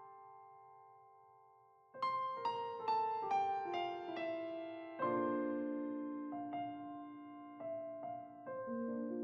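Slow, gentle solo piano music. A held chord fades away, then about two seconds in a descending run of notes begins. More chords are struck, each ringing out and fading.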